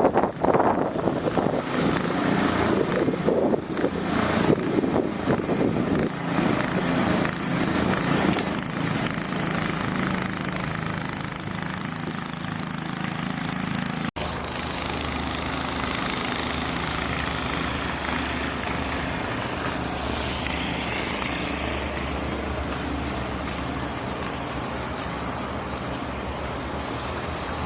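Gusty wind and city traffic noise in a snowstorm. About halfway through, an edit changes it abruptly to a steadier noise with a low engine-like hum.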